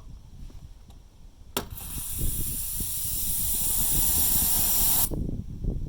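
Refrigerant gas hissing out of the air conditioner's outdoor unit line during an air purge, the unit's own refrigerant pushing air out of the copper piping. A sharp hiss starts about a second and a half in, runs for about three and a half seconds and cuts off suddenly.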